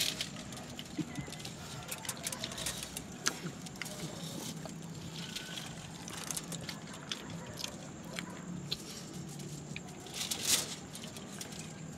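Scattered small clicks, taps and rustles of people eating and handling food and packaging in silence, with a louder rustle about ten seconds in.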